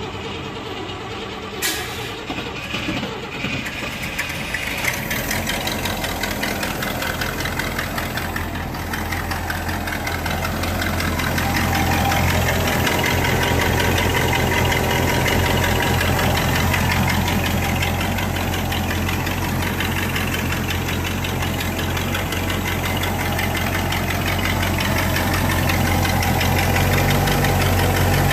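1959 Cadillac DeVille's 6.4-litre V8 idling, run to burp air out of its freshly refilled cooling system. The running gets louder and fuller about eleven seconds in.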